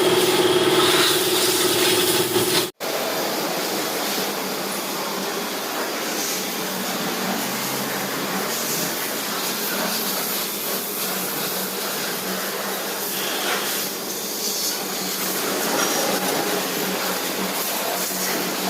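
A vehicle engine idling with a steady hum, cut off abruptly about three seconds in. Then comes a long, steady, even hiss like a water or air spray jet.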